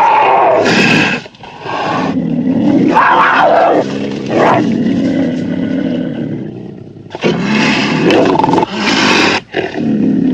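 Big cat roaring and growling: a string of loud roars, about five in all, with short breaks between them.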